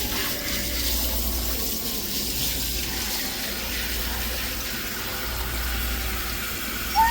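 Water running steadily from a tap during a dog's bath. Near the end comes a brief high-pitched squeak that rises slightly and cuts off suddenly.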